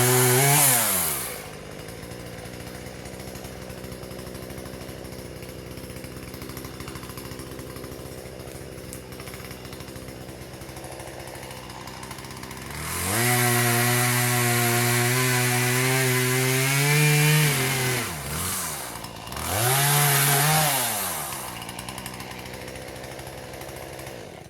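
Husqvarna 120 two-stroke chainsaw idling, revved briefly at the start, then held at high revs for about five seconds and revved once more before settling back to idle. The engine shuts off at the very end.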